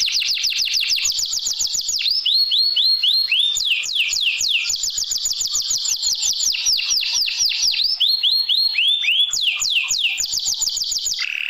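Domestic canary singing a long, unbroken song. It runs through phrases of fast, evenly repeated short notes and slower series of sweeping whistled notes, changing phrase every second or two. This kind of tutor song ('isian') is played to a reluctant canary to get it singing.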